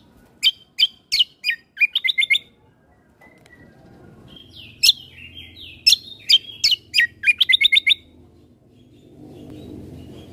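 Kecial kombo (cucak kombo) songbird singing loud, sharp chirping notes in two phrases, each ending in a quick run of five to seven rapid notes, with a pause of about two seconds between them. A faint low background noise fills the last couple of seconds.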